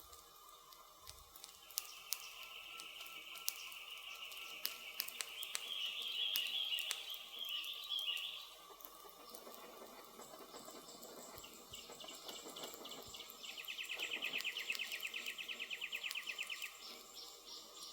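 Campfire crackling with scattered sharp pops, over forest ambience. Wildlife chirps a few seconds in, and a fast pulsed trill runs for about three seconds near the end.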